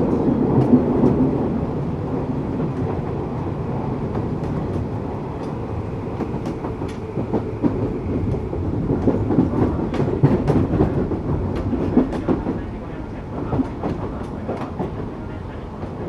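Tokyu 8500 series electric commuter train, with Toyo-built traction motors, running along the line: a steady rolling rumble with irregular sharp clicks and clacks from the wheels over the track.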